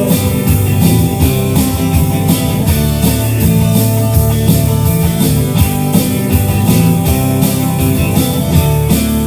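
Country-rock band playing an instrumental passage between vocal lines: guitars over bass and a steady drum-kit beat.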